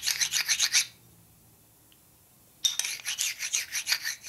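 Quick back-and-forth strokes of a honing stone rubbing on a steel panhead rocker arm, smoothing down high spots left by corrosion. The scraping stops about a second in and starts again after a pause of nearly two seconds.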